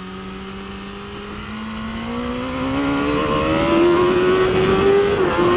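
BMW S1000RR inline-four superbike engine, heard from on board: it holds a steady note, then pulls hard with its pitch and loudness rising for several seconds. There is a brief drop in pitch near the end as it shifts up, and it keeps pulling.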